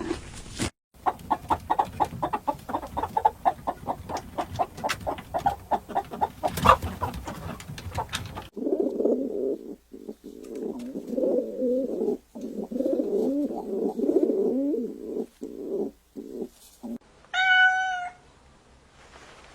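A domestic cat's vocalisations: a run of quick, rhythmic calls, then a longer, lower, wavering stretch, and one short meow near the end.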